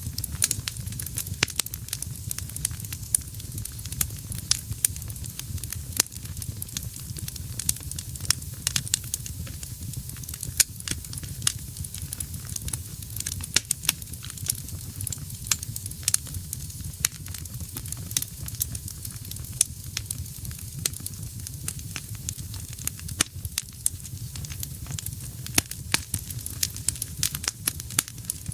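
Wood fire burning in a fireplace: constant irregular sharp crackles and pops over a steady low rumble of flame.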